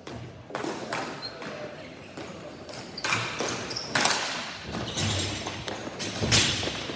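Ball hockey play echoing in a rink: a string of sharp knocks from sticks striking the ball and the ball hitting the boards, about seven in all, loudest a few seconds in and near the end.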